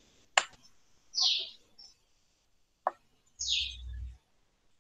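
A bird chirping repeatedly in the background: short calls, each dropping in pitch, about every two seconds. Two sharp clicks fall between the calls.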